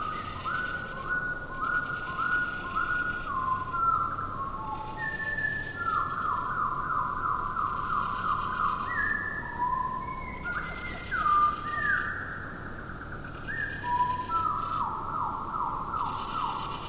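Birdsong played back at a quarter speed, so it sounds low and drawn out: a string of downward-sliding whistles, with runs of quickly repeated sweeps in the first few seconds, in the middle and near the end.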